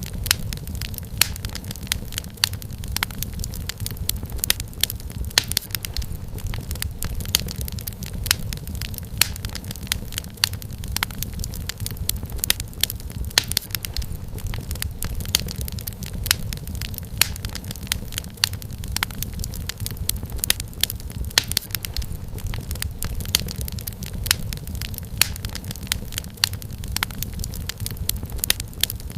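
Wood fire crackling steadily, with frequent sharp irregular pops and snaps from the burning firewood over a low, even rumble of the flames.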